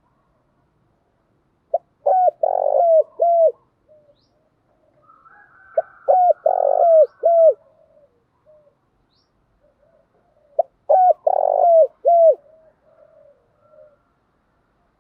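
Spotted dove cooing: three phrases about four seconds apart, each a few short coos around one longer note, with fainter coos between the phrases.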